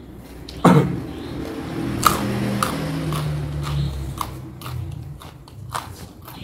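Close-up biting and chewing of raw lalapan vegetables and fried fish, with crisp crunching clicks scattered through. A sudden loud thump about half a second in is the loudest sound.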